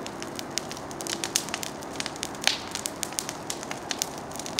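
Large campfire of dry brush and branches burning, crackling and snapping in many sharp, irregular pops, with one louder pop about halfway through.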